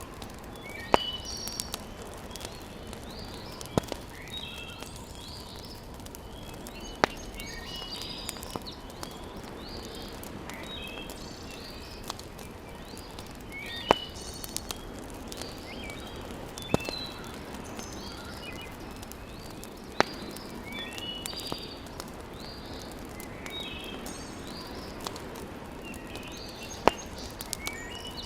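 Fire crackling in a fireplace, with a sharp pop every few seconds over a steady hiss. Birds chirp repeatedly in the background.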